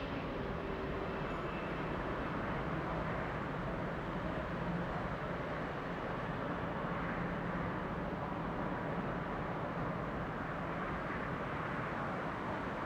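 Jet airliner engines heard as a steady, even rumble and rush of noise, with no clear rise or fall.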